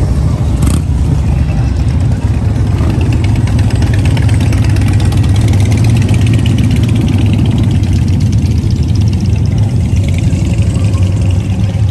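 Car engine running with a loud, steady low rumble, swelling slightly in the middle.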